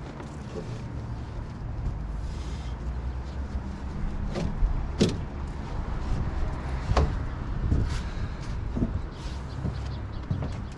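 Knocks and clunks of gear being loaded onto a vehicle, over a steady low rumble, with the sharpest knocks about halfway through.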